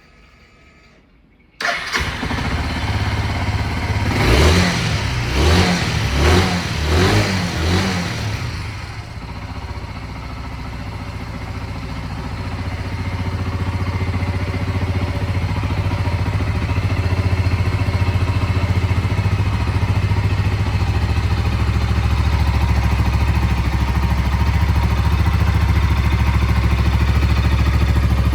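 Suzuki ST250E's fuel-injected single-cylinder engine starting about a second and a half in, revved several times in quick blips, then idling steadily.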